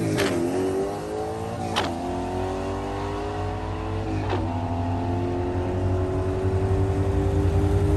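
1979 Monte Carlo's 408 small-block Chevy V8, on E85 with a manual gearbox, accelerating hard down the quarter mile. The engine note climbs and drops at three upshifts, right at the start, about two seconds in and about four seconds in, then pulls steadily in top gear.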